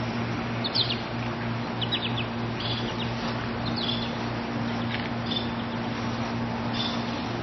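Bird chirping outdoors: short high notes every second or so, with a quick run of three about two seconds in, over a steady low hum and constant background hiss.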